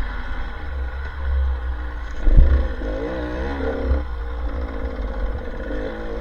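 Off-road motorcycle engine running, its pitch rising and falling as it is revved, over a steady low rumble, with a few thumps about two seconds in.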